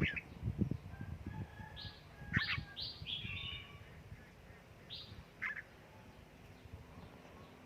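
Red-whiskered bulbul giving short chirping notes in scattered ones and twos, thinning out after about five and a half seconds, with soft low knocks in the first few seconds.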